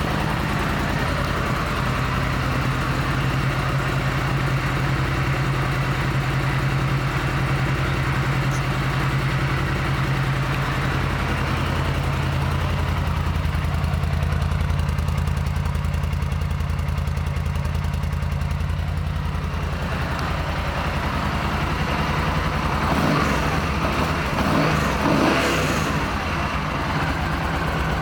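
Yamaha V Star 1300's liquid-cooled V-twin idling steadily just after a start. The idle note shifts a little about twelve seconds in, and the sound gets briefly louder and busier near the end.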